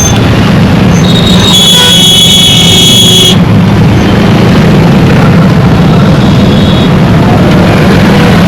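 Indian road traffic: a steady, loud rumble of engines and road noise, with a high-pitched vehicle horn sounding for about two seconds starting a second and a half in.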